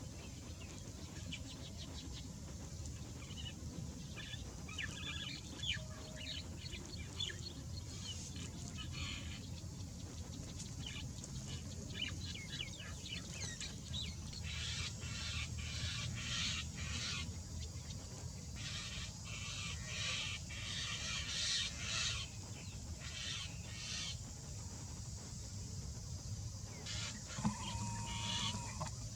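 Birds calling in quick chirps and twittering bursts that come in clusters, over a steady low rumble. Near the end there is a short held call.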